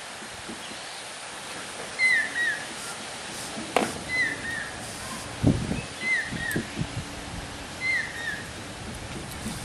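A bird calling over and over, a short phrase of two falling whistled notes repeated about every two seconds. There is a sharp knock a little before four seconds in and a few dull low thumps soon after.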